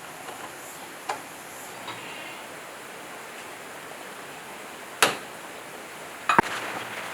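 Sharp metallic clinks and taps of tools and parts being handled while an electric motor is reassembled: a couple of light ticks, one loud clink about five seconds in and a short cluster of clinks near the end, over a faint steady hiss.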